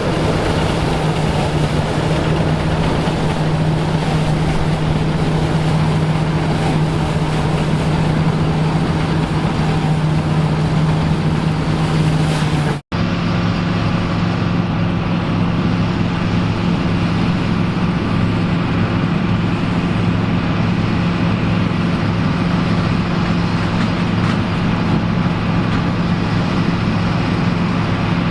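Vintage farm machinery engine running steadily under work, a constant low hum. About 13 seconds in the sound cuts out for an instant, and a different engine, lower in pitch, runs on steadily.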